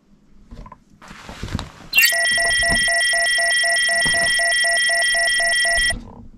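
Loud electronic alarm-like beep: a steady high tone pulsing about four times a second, opening with a short downward sweep and cutting off suddenly after about four seconds. A brief rustle comes just before it.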